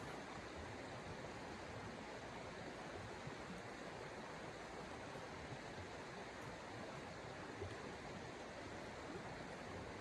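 Steady, even rushing noise with no distinct events, like wind or falling snow and rain on a tent.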